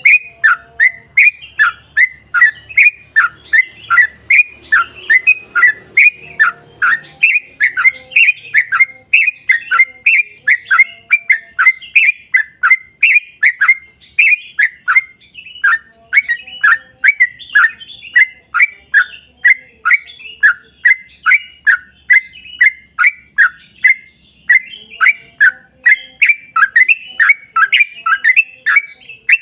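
Yellow-vented bulbul (trucukan) singing a long, unbroken run of rapid repeated notes, about two to three a second, each dropping sharply in pitch.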